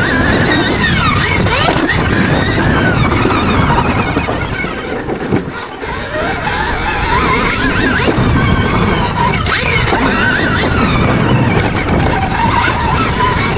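Stark Varg Gen 2 electric motocross bike's motor whining, its pitch rising and falling with the throttle, over a loud rushing noise. It eases off briefly about five seconds in, then picks up again.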